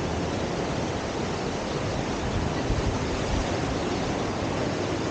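Steady rushing of river water pouring through the standing surf wave on the Deschutes River, with a few low rumbles near the middle.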